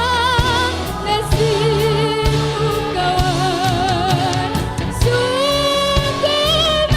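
A woman singing long held notes with a marked vibrato over band accompaniment with bass and a steady drum beat; she holds one note, moves to a higher one about three seconds in, then takes another held note near the end.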